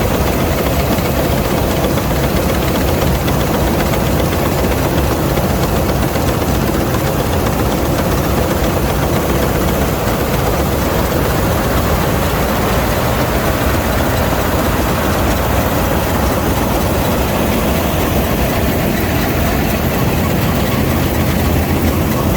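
Old Polish Vistula KZB-3B combine harvester running steadily while cutting grain: a loud, constant engine and machinery noise.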